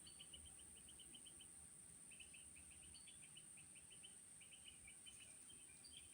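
Faint bird-like chirping in quick runs of short high notes, pausing for about half a second near the middle, over near silence with a steady high whine.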